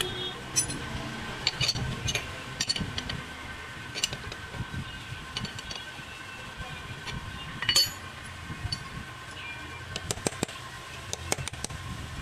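A series of light clinks and taps, with a sharper one about eight seconds in, over a steady low hum and a faint steady high whine.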